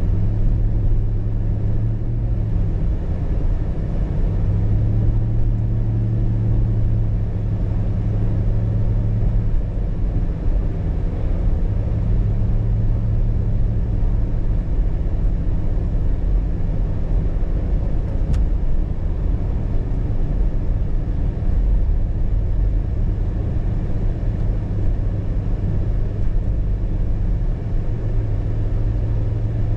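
Car driving, a steady low rumble of road and engine noise, with a low engine hum that swells and fades several times.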